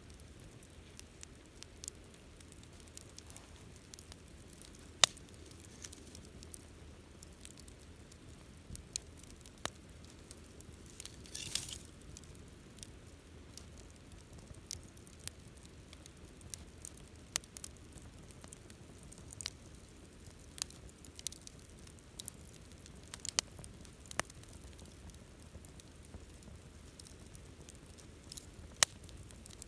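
Wood campfire crackling, with irregular sharp pops over a low steady hiss of the flames, and a brief hiss about a third of the way in.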